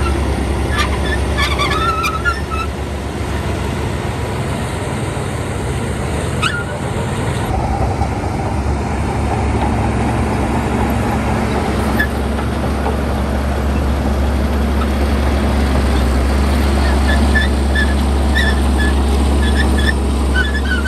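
Heavy diesel engine of earthmoving machinery running steadily with a deep rumble. Short high chirping sounds come through near the start and again near the end.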